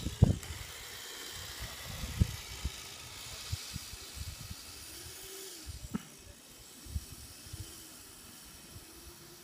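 Kyosho Blizzard SR radio-controlled snowcat's electric motor and tracks working through deep powder snow, heard as a faint hiss that fades as it drives away, with a few low thumps.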